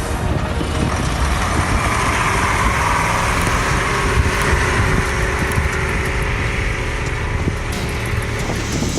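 Heavy truck engine running with a steady low rumble, mixed with a broad noise.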